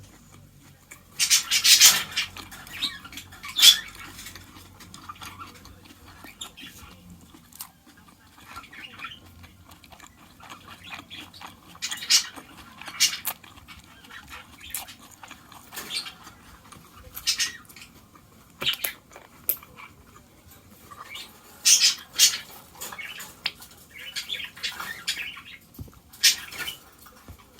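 Kitchen handling sounds during cooking: irregular clinks, knocks and scrapes of utensils and dishes, with a few longer scraping bursts.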